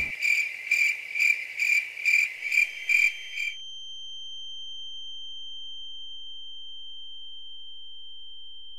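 Electronic beeping: a high tone pulsing about two and a half times a second for some three seconds, then giving way to a steady high tone.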